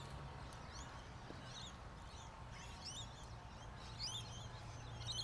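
Faint birdsong: short, bending chirps from small birds, coming every second or so.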